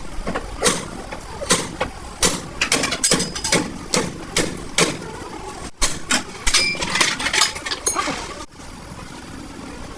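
Repeated hammer blows on sheet metal and steel during accident body repair, irregular strikes about one to two a second, each ringing briefly. The hammering stops near the end, leaving a quieter steady workshop noise.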